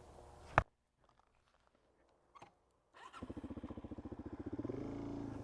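Suzuki DR-Z supermoto's single-cylinder engine idling, broken by a sharp click about half a second in, then about two seconds of silence. The engine's even pulsed idle comes back about three seconds in and gets steadily louder.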